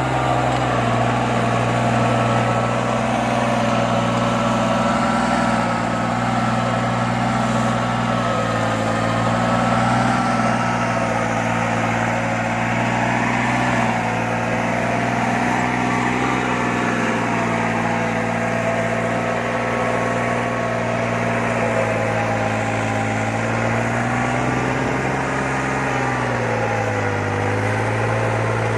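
New Holland tractor's diesel engine running at a steady speed, its pitch sagging briefly near the end before picking up again.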